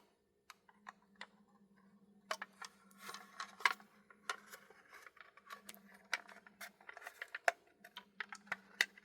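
Irregular small clicks and taps of a plastic HO-scale model locomotive being handled and gripped, sparse at first and then frequent from about two seconds in.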